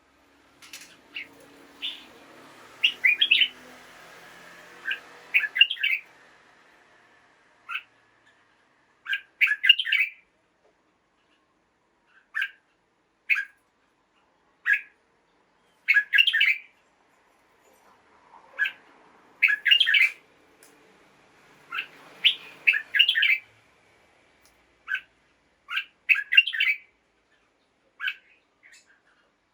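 Red-whiskered bulbul singing and calling: short, bright chirping phrases come in clusters every second or two, with a faint rushing noise underneath for the first few seconds and again about two-thirds of the way through.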